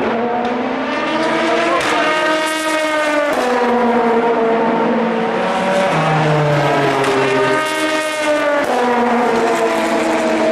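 Racing car engines at full throttle, accelerating with the pitch climbing and then dropping sharply at gear changes, about three seconds in and again near nine seconds.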